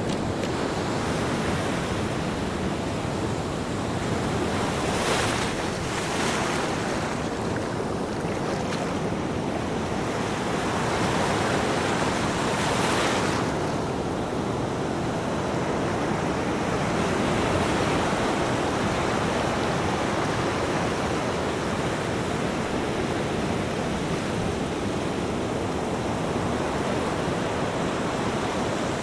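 Ocean waves breaking on a beach: a continuous wash of surf, with a few louder breakers swelling and hissing about five, six and thirteen seconds in. Some wind noise sits under the surf.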